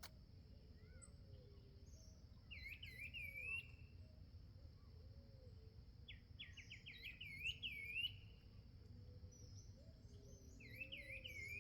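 Faint songbird calls at a backyard feeder: three short bursts of quick chirps and slurred notes, about 2.5, 6.5 and 10.5 seconds in. A steady high thin tone runs under them.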